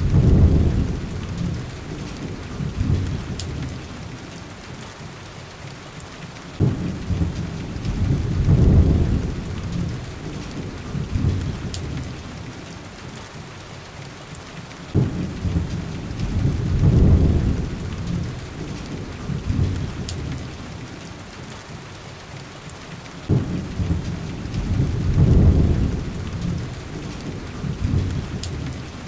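Steady heavy rain with rolling thunder: four low rumbles, each starting suddenly, swelling and fading over a few seconds, repeating about every eight seconds. A few faint sharp ticks sound over the rain.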